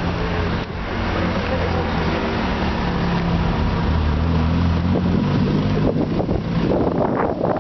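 Lotus Exige's four-cylinder engine running as the car drives slowly past at low revs, its note shifting up a little about halfway through. Wind buffets the microphone near the end.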